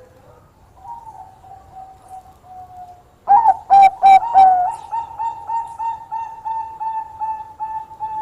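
Bangkok perkutut (zebra dove) cooing. A few faint coos come first, then about three seconds in some loud coos, followed by a quick, even run of short coo notes, about two or three a second.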